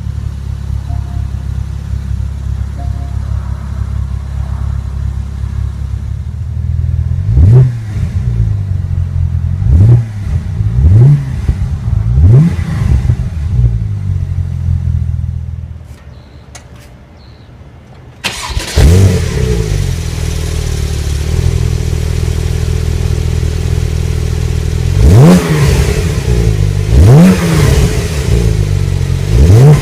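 2015 Porsche 911 Turbo's 3.8-litre twin-turbo flat-six idling and being blipped several times in short revs. About 16 s in it goes quiet for a couple of seconds, then starts up again abruptly, idles, and is revved three more times near the end.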